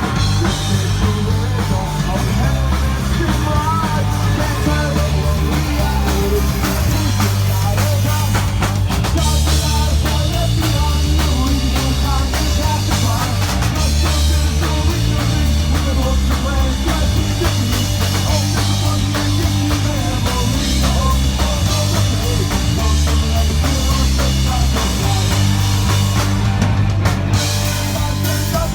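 Live punk rock band playing loudly, with a driving drum kit and bass under distorted guitars and some singing.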